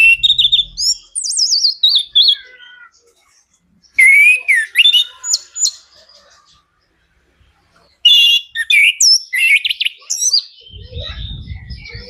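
Chestnut-capped thrush (anis kembang) singing: three bursts of rapid, varied whistled phrases with short pauses between them. A faint low hum comes in near the end.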